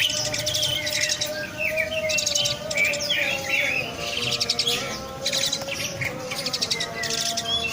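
Jalak suren (Asian pied starling) calling: a run of varied chirps and short whistles, broken every couple of seconds by brief bursts of rapid, dry rattling. A steady low tone runs underneath.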